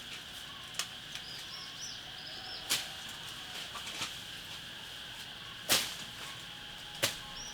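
Several sharp snaps or knocks, one to two seconds apart, the loudest in the middle, over a steady high-pitched insect drone and a few faint bird chirps.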